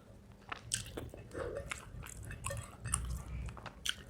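Close-miked chewing and biting of a mouthful of spicy chicken curry with rice: irregular wet mouth clicks and smacks.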